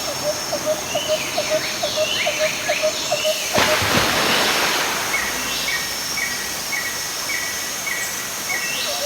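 Steady rush of a waterfall, growing louder about three and a half seconds in, with birds calling over it: a quick series of short notes at first, then a short high chirp repeated about twice a second.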